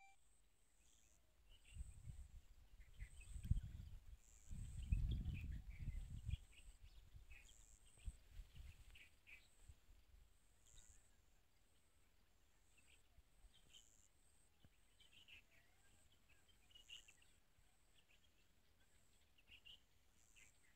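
Faint field ambience with small birds chirping on and off. A low rumble of wind buffeting the microphone from about two to six seconds in is the loudest part.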